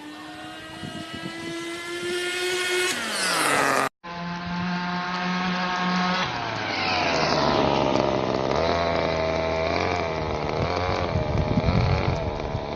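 Small nitro engine of an HSP Backwash RC buggy running: its pitch climbs steadily for about three seconds, then falls away. After a sudden cut it holds a steady pitch, drops lower, and then rises and falls repeatedly as the throttle is worked.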